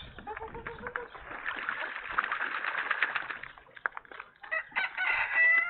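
A rooster crows about five seconds in. Before it there is a couple of seconds of dense crackly, clicking noise.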